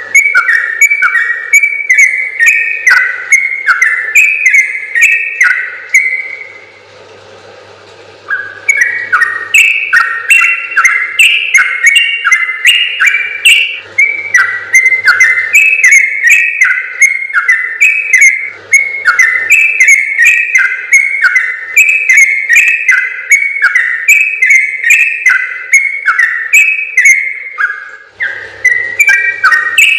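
Sooty-headed bulbul (trucukan) singing a long, rapid run of whistled notes that step up and down in pitch, with a break of about two seconds near a quarter of the way in.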